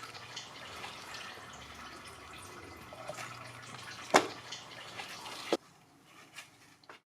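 Engine oil draining from the open drain plug hole and splashing and dripping into a drain pan, with a sharp knock about four seconds in and another about a second later, after which the sound drops away.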